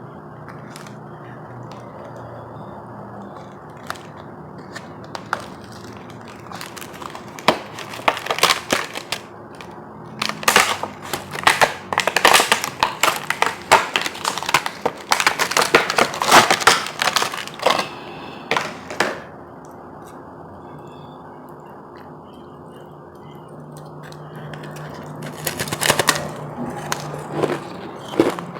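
Ice crackling and crunching in a long run of sharp cracks through the middle and a shorter run near the end, over a steady low background hum.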